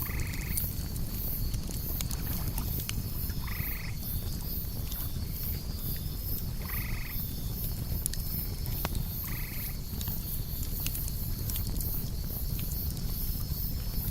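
Campfire ambience: a low steady rumble with scattered crackles, under a constant high chirring of crickets. An animal's short call sounds four times, about three seconds apart.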